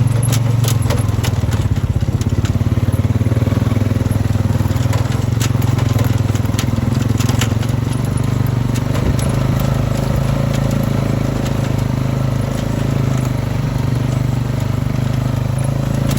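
A motor vehicle's engine running steadily, with crunching and crackling clicks over the first half.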